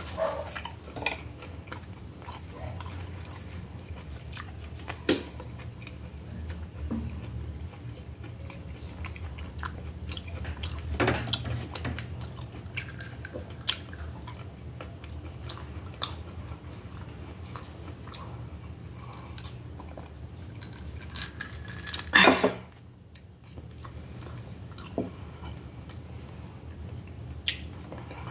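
Close-up chewing and mouth sounds of a person eating a meal, with scattered small clicks of cutlery on a plate and a few louder knocks, the loudest about three-quarters of the way through. A steady low hum runs underneath.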